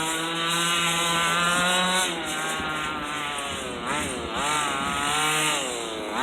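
29cc King two-stroke engine of a large-scale gas RC car running at high revs. It holds a steady pitch for about two seconds, then the revs drop and swing up and down several times as the throttle is eased off and blipped.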